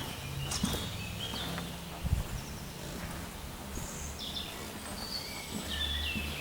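Birds chirping and singing outdoors, many short high notes through the whole stretch, over a steady low rumble. A single dull knock sounds about two seconds in.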